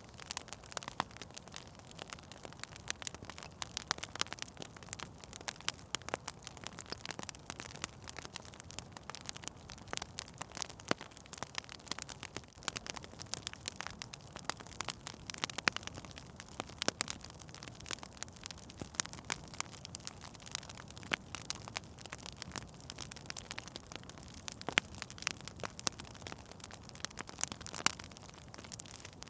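Fire in a fireplace crackling, with many irregular sharp pops and snaps over a soft, steady low rush of the flames.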